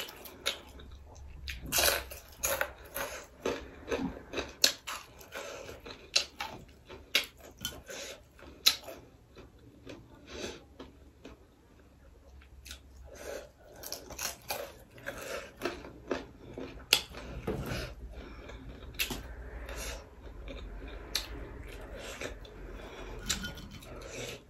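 Chewing and crunching on pieces of fried duck eaten by hand, with many sharp crunches and wet mouth clicks throughout, thinning out for a few seconds near the middle.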